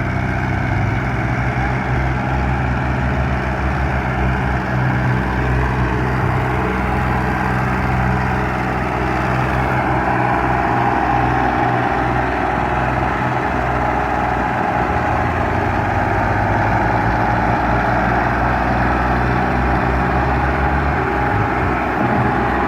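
Tractor diesel engine running steadily, its low note wavering slightly.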